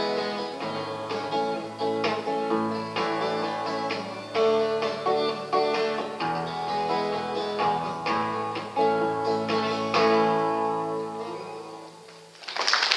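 Acoustic guitar playing the instrumental close of a song, picked notes over a steady bass line, fading out about eleven seconds in. A short, sudden burst of noise comes at the very end.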